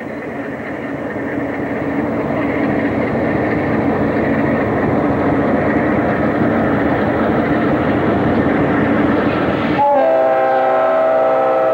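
A diesel freight train, led by Chessie System and Norfolk Southern locomotives, approaching and passing close by, its engines and wheels on the rails growing steadily louder. About ten seconds in, a multi-note locomotive air horn sounds and is held to the end.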